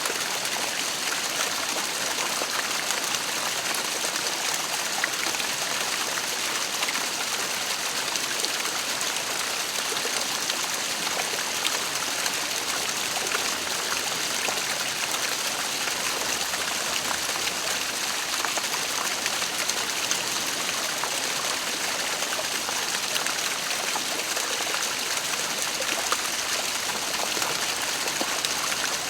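Waterfall: water falling and splashing in a steady, unbroken rush with a hissing top.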